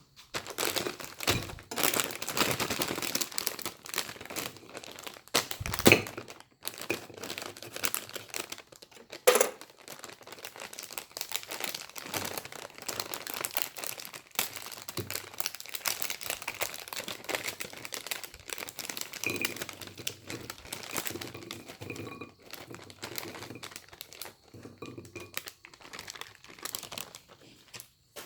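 Corn snacks crunching and crinkling in a long run of dense crackles, with two louder sharp cracks about six and nine seconds in.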